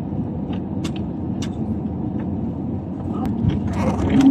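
Steady low rumble of a moving vehicle, with a few faint clicks; a louder hum comes in at the very end.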